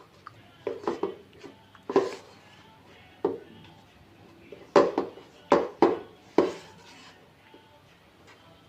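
Kitchen clatter: a series of irregular knocks and taps of utensils and cookware, the densest run of sharp knocks a little after the middle.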